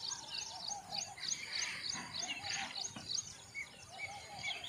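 Birds calling in the open: a steady series of short high chirps, about three or four a second, with three short runs of rapid lower, arched notes.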